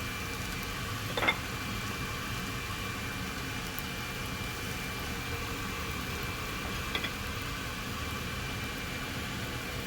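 Steady hiss of a pan of vegetables and egg frying over a medium flame while rice is added, with a spoon clinking sharply against the pan twice, loudly about a second in and more faintly about seven seconds in.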